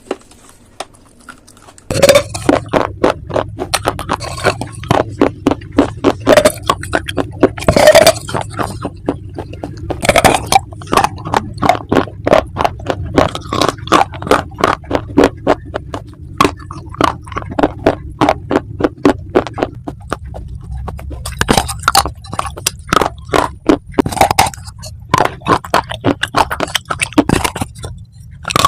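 Close-miked crunching of dry clay being bitten and chewed: a dense, rapid run of crisp cracks and crackles that starts about two seconds in and keeps going.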